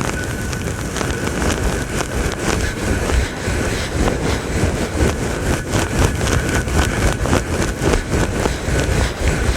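A brush scrubbing rapidly and continuously against a microphone, loud and close, as a dense rustling scratch with a heavy low rumble.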